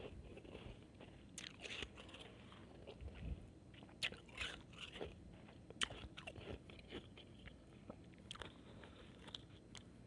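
A person biting and chewing shaved ice, giving faint, irregular crisp crunches, with a few sharper bites standing out.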